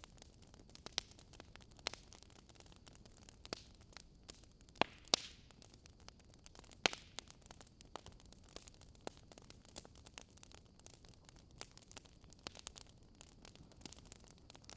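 Wood fire burning in a fire pit, crackling and popping with sharp snaps at irregular intervals over a low steady hiss.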